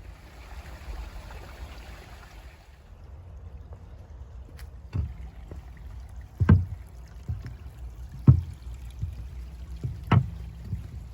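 A faint rush of water in the first couple of seconds, then a series of dull thumps about every second or two over a steady low rumble: footsteps and handling while walking a riverside trail.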